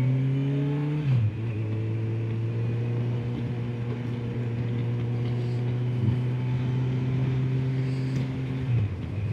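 Motorcycle engine under way: the revs climb, drop sharply about a second in as the rider shifts up, then hold steady at cruising speed before falling again near the end.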